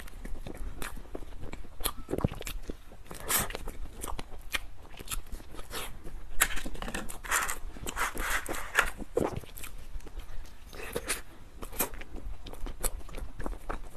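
Close-miked chewing and lip-smacking of soft bread, a dense run of short wet clicks and smacks, with plastic food-handling gloves crinkling as the bun is pulled apart.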